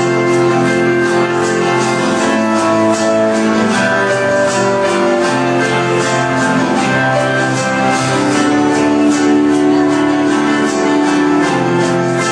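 Live band music: an instrumental passage with guitar over a steady drum beat, without vocals.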